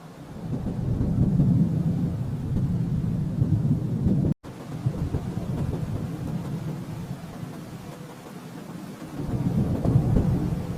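Rolling thunder, a low rumble that swells up within the first second, cuts out completely for an instant a little over four seconds in, then eases off and builds again near the end.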